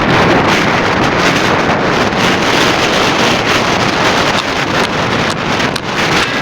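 Strong wind buffeting the microphone: a loud, steady rush broken by frequent short gusty thumps.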